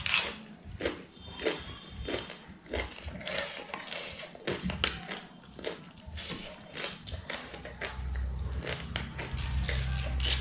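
Close-up eating sounds: chewing a raw cabbage-leaf wrap, with many quick crunches, wet mouth clicks and smacks. A low steady hum comes in about eight seconds in.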